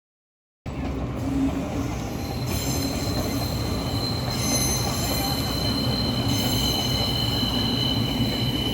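A train running on the rails: a steady rumble that cuts in abruptly, joined about two seconds in by a high-pitched, steady whine.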